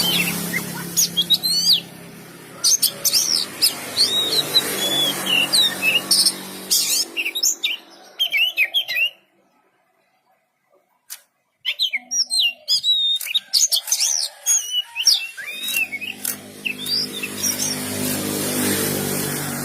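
Oriental magpie-robin (kacer) singing a fast, varied run of whistles and chirps, which breaks off for about two seconds near the middle. A low droning hum swells in the background at the start and again near the end.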